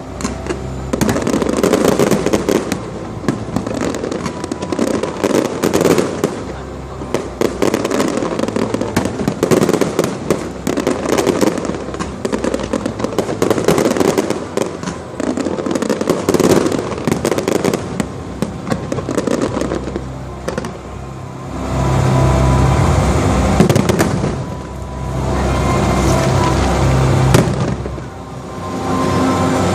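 Fireworks display: a dense, continuous run of shell bursts, bangs and crackling. From about two-thirds of the way through, music comes up alongside the bursts.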